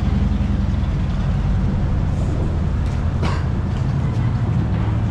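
City street traffic: a steady low rumble of passing vehicles, with a short hiss about three seconds in.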